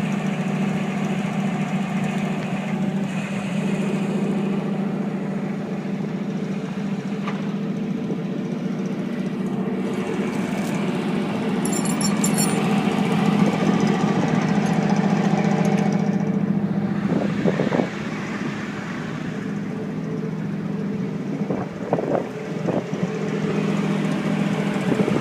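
A vehicle engine running steadily under load, getting somewhat louder past the middle and easing off a couple of seconds later.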